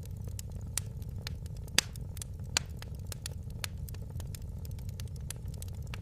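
Fire in a fireplace crackling: irregular sharp pops and snaps over a steady low rumble of the flames, with two louder pops a little under two and about two and a half seconds in.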